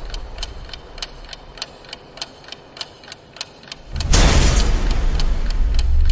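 Clock ticking sound effect, an even tick about three times a second, over a fading low rumble. About four seconds in, a loud rushing surge with a heavy low rumble swells up over the ticking.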